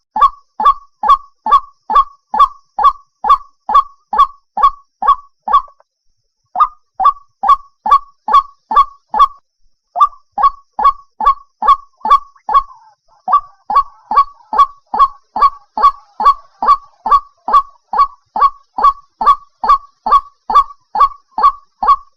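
White-breasted waterhen (chim cuốc) calling: one short note repeated about three times a second in a steady, regular run. The run breaks twice, briefly, about six and ten seconds in.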